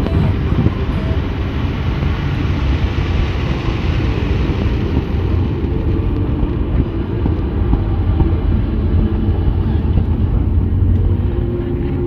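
Fireworks display: a steady low rumble with a hiss that fades out about five seconds in, and few distinct bangs.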